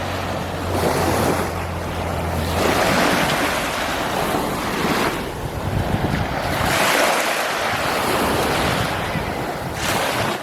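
Small Gulf of Mexico waves breaking on a sandy beach, the surf swelling and fading every two to three seconds, with wind buffeting the microphone.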